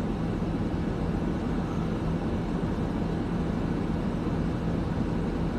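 Steady low hum and rumble inside a stationary car's cabin, with an even drone from the engine idling.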